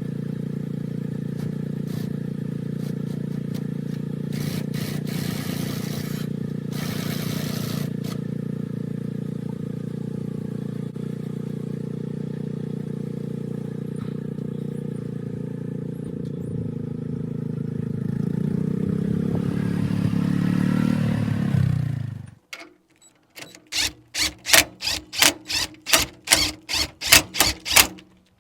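Garden tractor engine running steadily, picking up a little speed near the end before it is shut off and winds down. Then a run of about a dozen short, regular pulses, around three a second.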